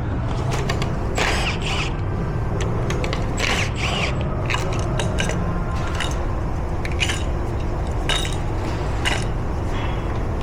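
Metal clicks and scrapes of roller lifters being worked out of a Ford 7.3-litre gas V8's lifter bores one after another, over a steady low background hum.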